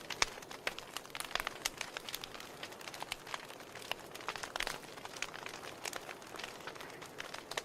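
Wood fire burning in a fireplace, logs crackling with many irregular sharp pops over a soft steady hiss.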